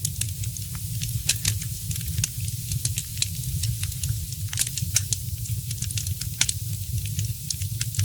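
Wood fire crackling: frequent, irregular sharp pops and snaps over a steady low rumble of the burning fire.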